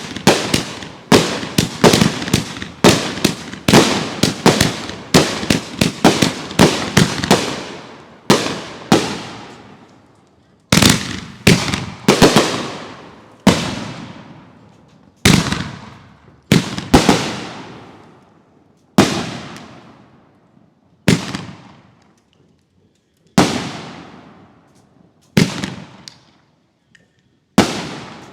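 Consumer fireworks going off: a fast run of loud bangs for the first eight seconds or so, then single bangs every second or two, each trailing off in a long echo.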